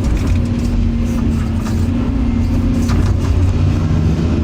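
Heavy machine's engine running steadily: a low, even drone with a steady hum above it.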